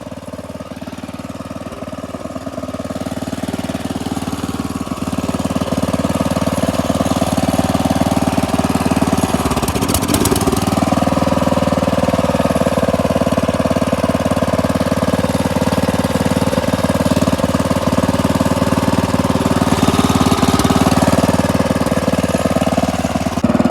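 A tractor engine running steadily at idle, freshly started with starter fluid and left to warm up. It grows louder over the first several seconds, with a brief rustling noise about ten seconds in.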